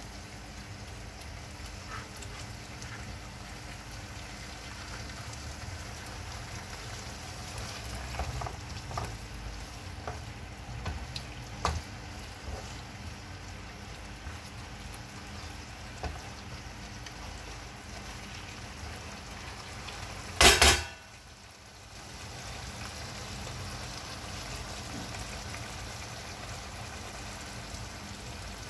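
Potato curry sizzling and simmering in a pan, with a wooden spoon tapping and scraping against the pan a few times in the middle. About two-thirds of the way through there is one loud, brief clatter, after which the sizzle briefly goes quieter.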